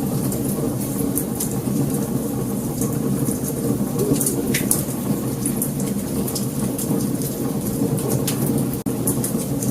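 Wood fire burning: a steady low rumble of flames with frequent sharp crackles and pops. The sound cuts out for an instant shortly before the end.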